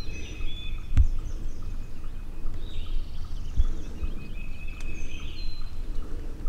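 Small birds chirping and whistling in short phrases over a low outdoor rumble, with a sharp knock about a second in and a couple of dull low thumps later.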